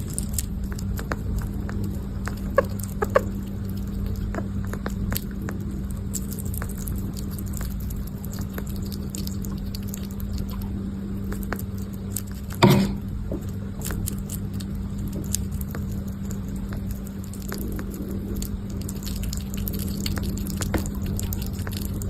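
Small pet scrabbling and nibbling: many light clicks and taps over a steady low hum, with two short squeaks about three seconds in and one louder bump about halfway through.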